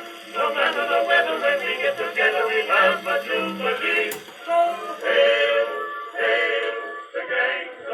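1912 acoustic recording of a male vocal quartet singing with orchestra, played back on an Edison Diamond Disc phonograph with an Edisonic reproducer. The sound is cut off above about 4 kHz.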